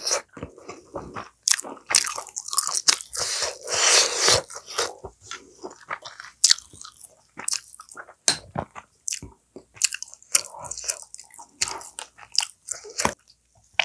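A person chewing and eating food close to the microphone: irregular wet smacks and clicks of the mouth, with no steady rhythm.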